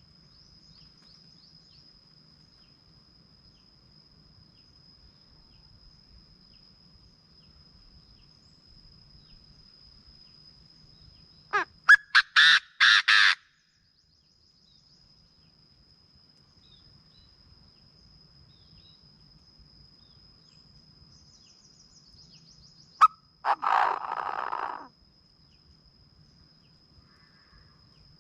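Chinese francolin calling: a loud run of about six harsh, rapid notes near the middle, and a second, shorter loud call about two-thirds through. A faint steady high-pitched whine runs underneath.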